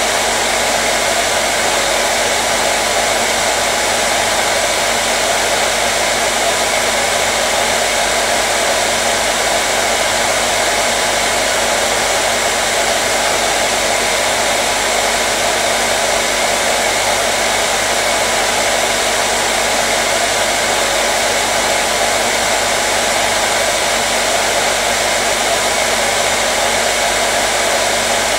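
Hair dryer blowing steadily: an even, unchanging rush of air with a faint motor hum underneath.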